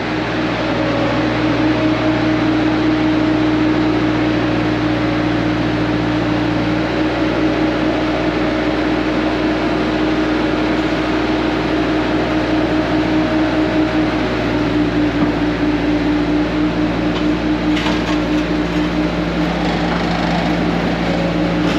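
A vehicle engine running steadily under way, with small shifts in pitch about a third and two-thirds of the way through.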